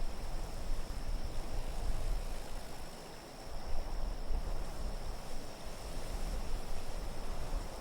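Wind blowing in slow gusts, a deep rumble that swells and eases, with a thin, steady high hiss above it.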